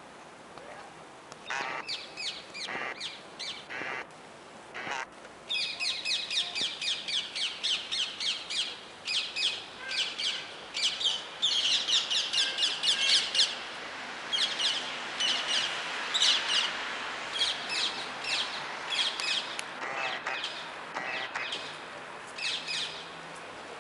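Birds calling outdoors in quick runs of short, harsh, repeated calls, several a second, over steady background noise.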